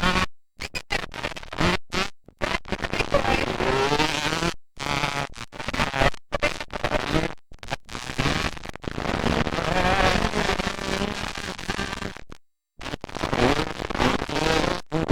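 Motocross dirt bike engines running and revving, with pitch rising and falling. The sound cuts out completely for split seconds many times, and is silent for about half a second near the end.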